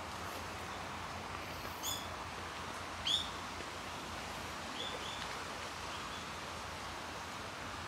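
A bird calling in short, sharp notes: one about two seconds in, the loudest just after three seconds, and a few fainter ones near the middle. Steady outdoor background noise runs underneath.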